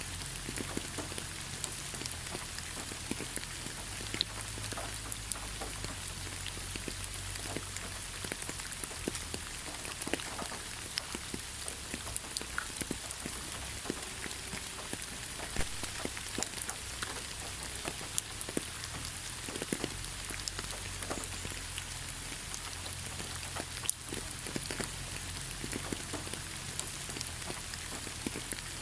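Steady rain falling in a forest, a continuous hiss with many separate drops tapping sharply throughout.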